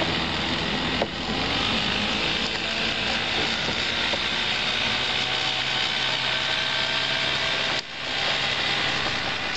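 Boat motor running steadily at low speed close by, slowed down for the canoe, with a brief drop in level about eight seconds in.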